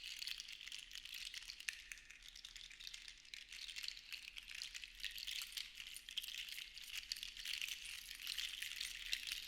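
Small seashells rattling together: a dense, continuous clatter of tiny clicks that swells and eases in slow waves.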